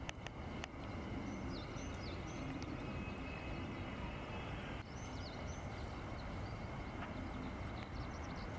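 Many small birds chirping over and over, short quick down-slurred calls, over a steady low background rumble.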